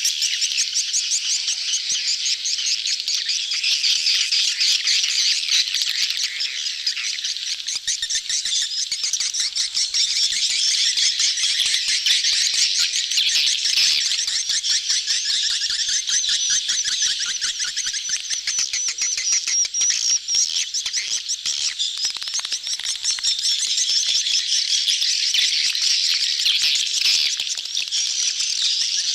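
A dense colony of swiftlets chattering without pause, many overlapping rapid high chirps and twitters. It is a swiftlet-farming lure call, a crowd in mating condition, used to draw swiftlets into a nest house.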